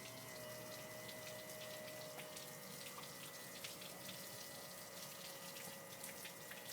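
Water trickling and dripping, with many small, scattered drips over a soft steady hiss and a faint steady high whine.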